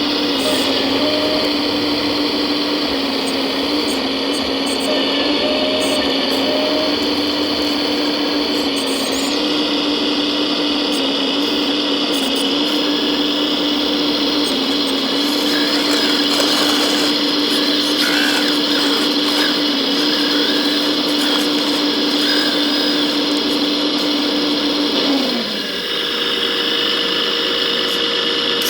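Steady whine from the electric motors and hydraulic pump of 1:14-scale RC construction machines at work, holding one pitch. About 25 seconds in, that tone falls away and a different, higher steady whine takes over.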